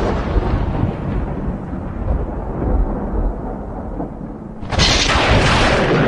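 Thunder rumbling and slowly fading over rain, then a sudden loud new thunderclap a little before the end that rolls on.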